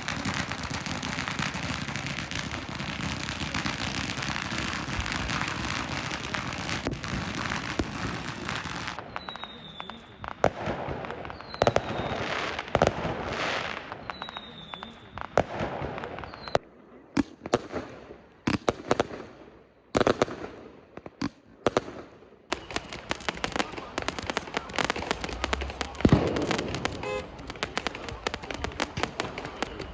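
Fireworks and firecrackers going off: a dense, continuous crackle of firecrackers for the first nine seconds or so, then separate sharp bangs scattered through the rest, a few with short falling whistles.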